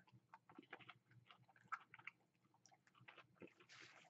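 Faint, close chewing of breaded fried cheese curds, heard as many small irregular clicks. A soft hiss rises near the end.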